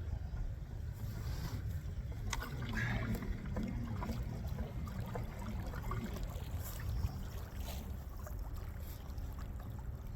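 Steady low rumble of wind buffeting the microphone aboard a small fishing boat, with scattered knocks and clicks of gear being handled.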